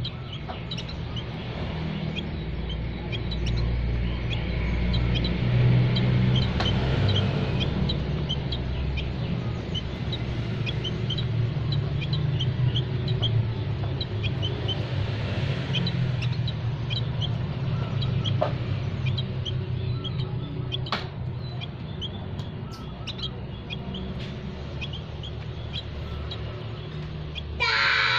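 Small songbirds chirping over and over, short high chirps from several birds, over a low steady rumble. Guitar music starts near the end.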